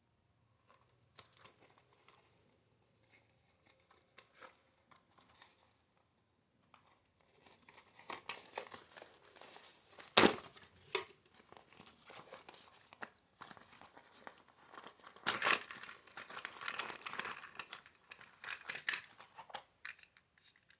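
Packaging crinkling and tearing in irregular bursts of rustling, sparse at first and busier after about seven seconds, with one sharp snap about ten seconds in.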